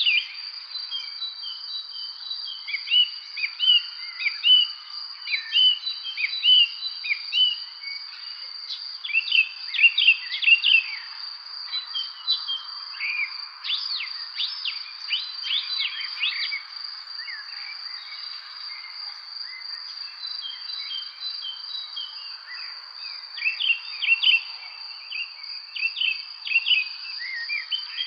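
Evening songbird chorus: many short chirps and trills from several birds, in bursts that are busiest in the middle and near the end. A steady high-pitched insect trill runs underneath.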